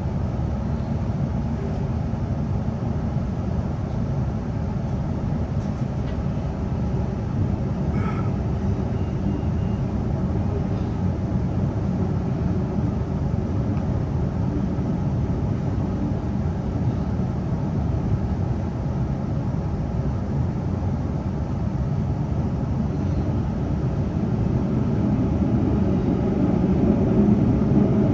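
Queensland Rail NGR electric train running between stations, a steady rumble of wheels on track heard from inside the carriage, growing louder over the last few seconds.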